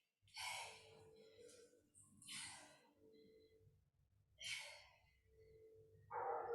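A woman breathing hard with exertion: three short, heavy breaths about two seconds apart, and another beginning near the end.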